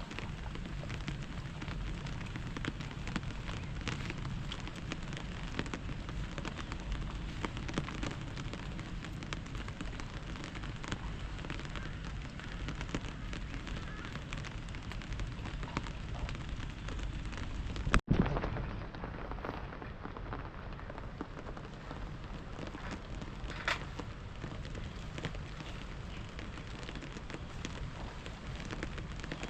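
Steady rain pattering on surfaces, full of small drip ticks, with a sudden break and a short louder burst about eighteen seconds in.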